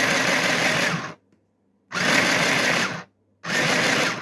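Mini sewing machine running in short spurts of about a second each, stopping and starting twice.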